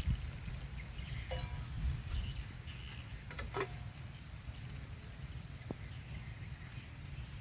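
Wind rumbling on the microphone outdoors on a stormy day, with a few brief faint sounds about one, three and a half and six seconds in.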